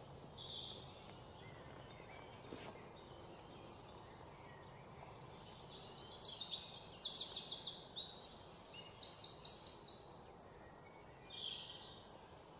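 Birds calling in the trees: scattered high chirps, with rapid repeated trills in the middle stretch.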